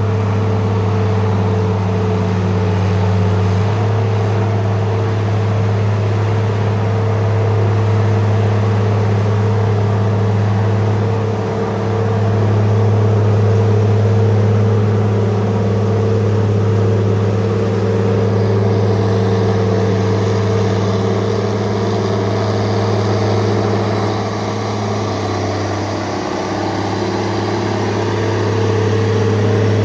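Heavy logging machine's engine running steadily, with a few small shifts in its pitch.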